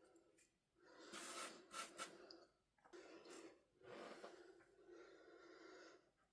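Faint rustling and crinkling of packaging being handled, in several bursts, with a couple of sharp clicks about two seconds in.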